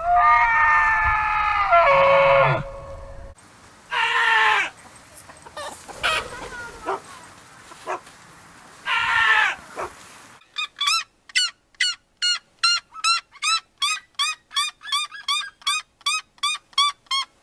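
Chickens: a rooster crowing, followed by a couple of shorter calls, then a long run of quick, evenly repeated high calls at about three a second.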